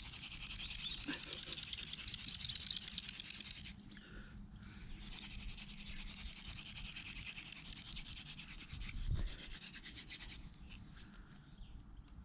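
Hand drill fire-lighting: an elder spindle spun fast between the palms into an ivy hearth board, making a dense rasping friction hiss as it grinds out hot dust toward an ember. It runs in two spells of several seconds, with a break of about a second near four seconds in, and dies away about ten seconds in.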